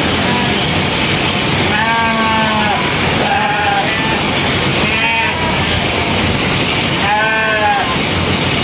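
Sheep bleating about four times, each call a short wavering cry, over a steady loud noise, presumably the shearing going on.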